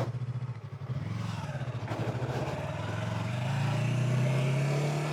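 Sportbike engine running at low revs as the bike moves off slowly, its pitch and loudness rising a little in the second half.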